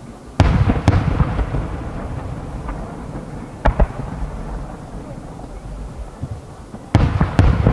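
Distant aerial firework shells bursting: two booms about half a second in, a quick double crack a little before the middle, and another pair of booms near the end, each trailing off in a long rolling rumble.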